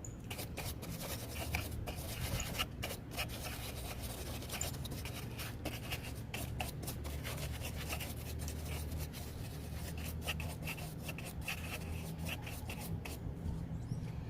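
Rapid, irregular scrubbing strokes of a detailing brush on engine-bay surfaces, over a steady low hum.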